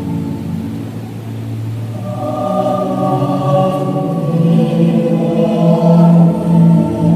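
Choral music with slow, sustained notes; higher voices enter about two seconds in and the sound swells louder toward the end.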